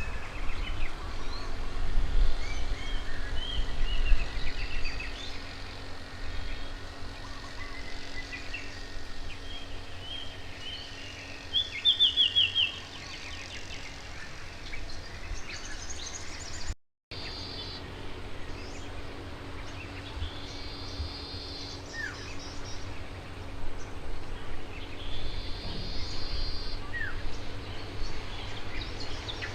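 Wild birds chirping and calling: short high chirps, a quick rapid trill about twelve seconds in, and buzzy repeated calls later on, over a steady low rumble. The sound cuts out completely for a moment midway.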